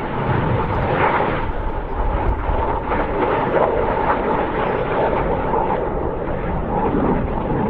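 Red Arrows' BAE Hawk T1 jet trainers flying a display, their jet engines making a loud, continuous rushing noise with a steady whine, swelling slightly as the aircraft pass.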